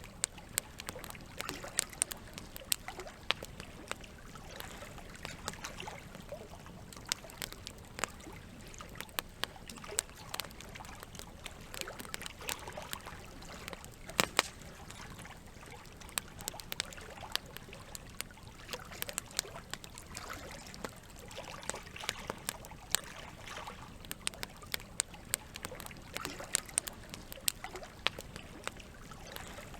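Campfire crackling, with frequent irregular sharp pops, over a steady wash of running water. The loudest pop comes about halfway through.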